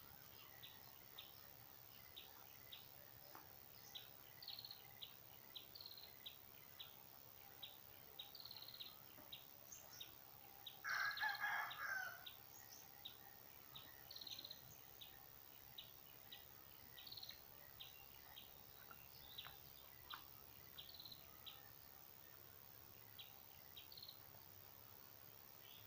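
Small birds chirping in short high notes, a couple a second, with a rooster crowing once about eleven seconds in.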